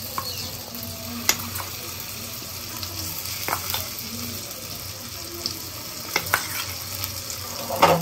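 Soya chunks sizzling as they fry in shallow oil in a pan, with a few sharp clinks of a spoon or spatula against the pan.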